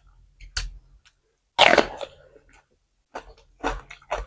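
Close-miked eating: a person biting and chewing food in a handful of short, sudden bursts, the loudest about a second and a half in.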